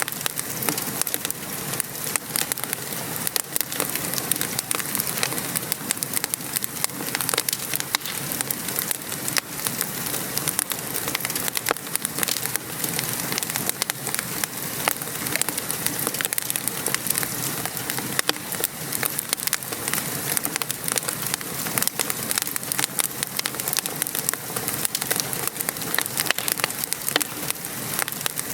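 Steady rain pattering, mixed with a wood fire crackling in a fireplace, which gives frequent small pops and clicks throughout.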